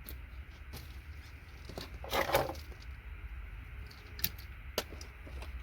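Small scattered clicks and rattles of gold-plated circuit-board pieces and pins being handled and cut, with one short louder scrape about two seconds in.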